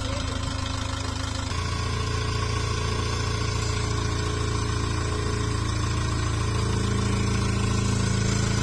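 Heavy diesel engine of a backhoe loader or tractor running steadily. Its note changes about one and a half seconds in, and it grows slightly louder toward the end.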